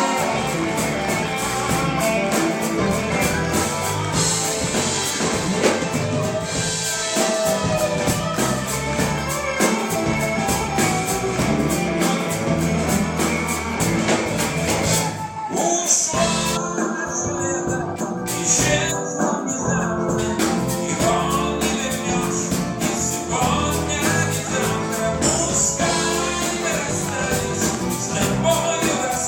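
Live band playing an instrumental passage with a steady drum beat.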